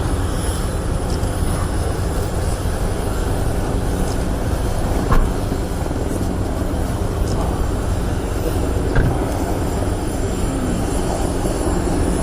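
Steady aircraft engine noise, a loud even drone heaviest in the low end, with two brief knocks about five and nine seconds in.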